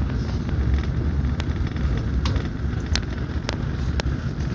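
Airport express train running at speed, heard from inside the carriage: a steady low rumble and rushing noise, with about five sharp clicks in the second half.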